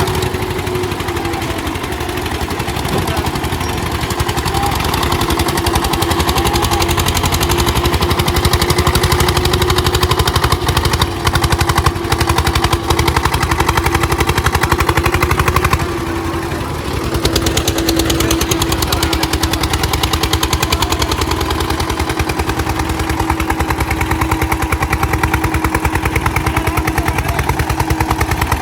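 Eicher 241 tractors' single-cylinder diesel engines running hard under heavy load in a tug-of-war, a rapid, even thudding of firing strokes with a steady hum over it. The sound eases briefly a little past halfway, then picks up again.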